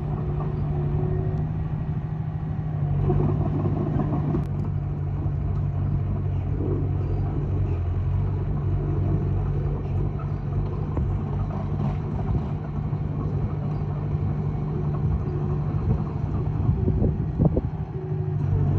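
Komatsu D20A bulldozer's diesel engine running steadily under load while pushing soil, with a few short clanks near the end.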